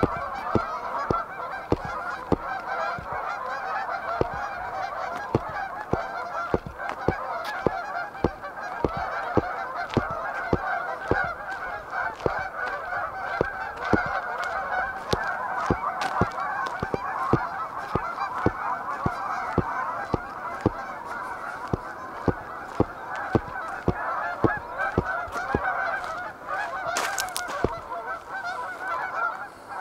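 A large flock of Canada geese honking and squawking all at once, a continuous racket of overlapping calls. Sharp clicks at an even pace of about two a second run through it.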